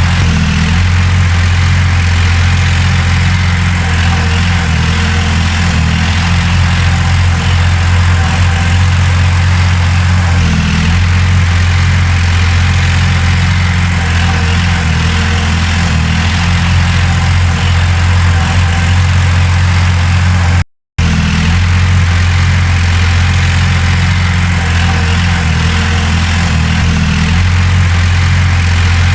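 Heavy earthmoving machinery's diesel engine running steadily with a deep, even drone. The sound drops out for a split second about two-thirds of the way through.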